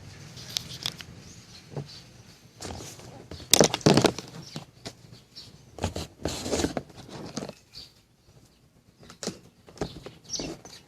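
Irregular clicks, knocks and short scrapes of hard objects being handled, loudest in a cluster of knocks about three and a half to four seconds in.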